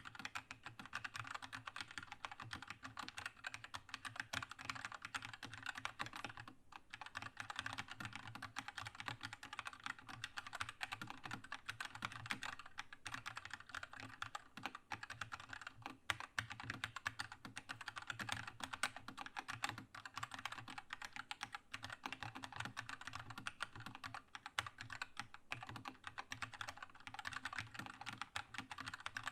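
Continuous fast typing on a Keychron K2 mechanical keyboard with red linear switches, a dense stream of key clacks with a short pause about six and a half seconds in.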